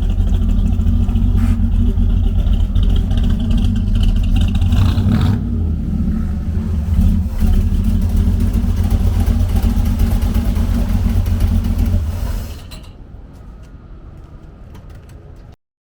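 Custom restomod Chevy drag truck's engine running with a loud, choppy, steady rumble. It stops about twelve and a half seconds in, leaving only a much quieter background.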